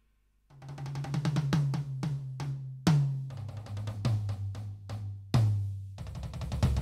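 Roland TD-17KVX V-Drums electronic drum kit being played. About half a second in, a run of quick tom strokes starts and steps down in pitch, with loud accented hits about three and five and a half seconds in.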